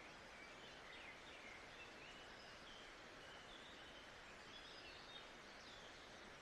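Faint nature ambience: an even, steady hiss with many short bird chirps and whistles over it.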